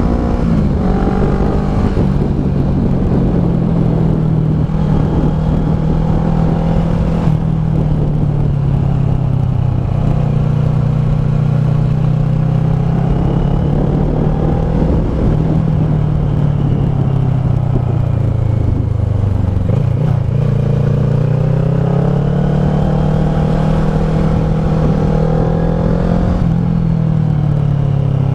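Kawasaki ER-6f's parallel-twin engine running through a Leo Vince SBK slip-on exhaust, its note rising and falling as the throttle is worked. The note dips about two-thirds of the way through, then climbs again and eases off near the end.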